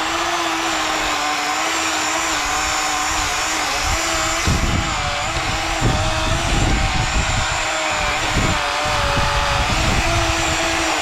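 Worx WG384.9 cordless electric chainsaw cutting through a pine branch, its motor hum wavering in pitch as the chain loads and frees in the wood. Heavy low thumps come between about four and nine seconds in.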